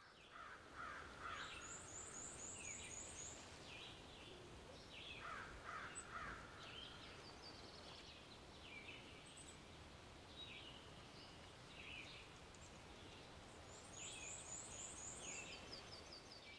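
Faint outdoor ambience: birds calling and chirping over a steady hiss, with a fast high trill of repeated notes near the start and again near the end.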